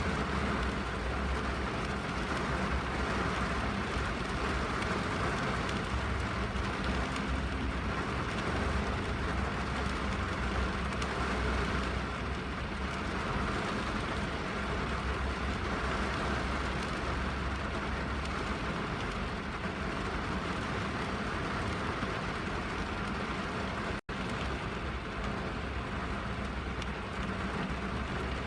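Rain falling on a car's roof and glass, heard from inside the cabin: a steady hiss over a low rumble, with a split-second gap in the sound near the end.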